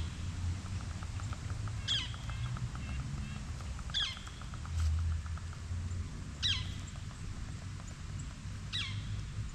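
A bird calling: short, sharp calls that sweep steeply down in pitch, repeated about every two seconds, five times in all. A quick run of faint ticks sounds about a second and a half in, over a steady low rumble.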